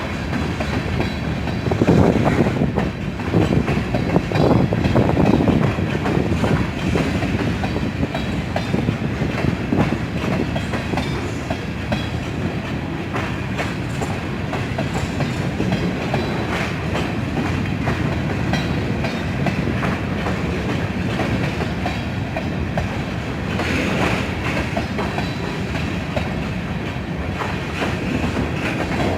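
Freight train cars rolling past with a steady rumble and repeated clicking of wheels over the rail joints, a little louder in the first few seconds.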